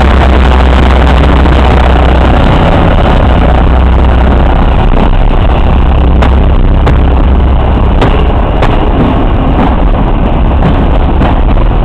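A MÁV class 448 (M44) diesel locomotive passing close by with a loud, steady low engine drone that fades after about four seconds. Its passenger coaches then roll past, their wheels clicking and knocking over rail joints.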